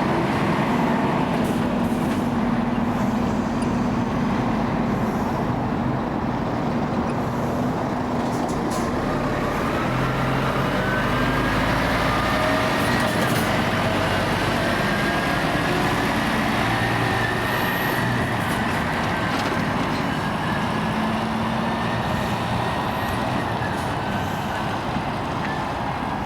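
Heavy lorry engines running over steady motorway traffic noise, with a faint whine that slowly rises in pitch through the middle.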